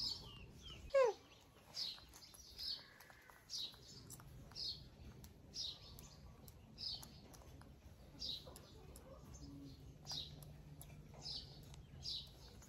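A bird chirping steadily, one short high chirp about every second, with a single louder call sliding down in pitch about a second in. Faint clicks and rustles of fingers picking through hair sit underneath.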